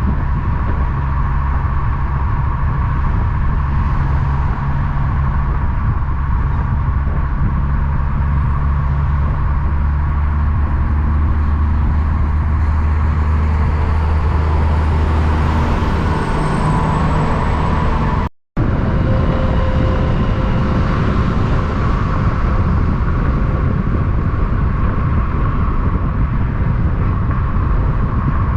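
Big-rig diesel truck engine drone with road traffic noise, the low engine hum and a high falling whine fading out about two-thirds of the way through. A sudden split-second dropout follows, then steady passing-traffic noise.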